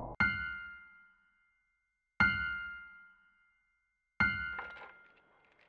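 A bell-like chime struck three times, two seconds apart, each ring dying away over about a second.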